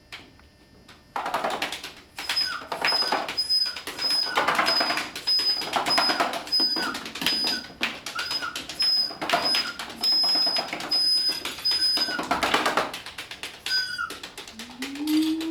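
Group soundscape performance: a dense hissing, rustling texture swells and fades in waves, starting about a second in. Over it, a short high beep repeats steadily, with small bird-like chirps.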